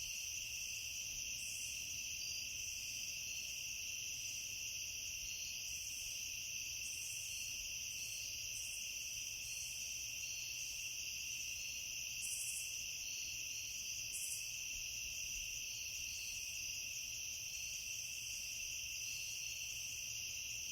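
A steady chorus of insects, a continuous high trilling at two pitches that neither rises nor falls.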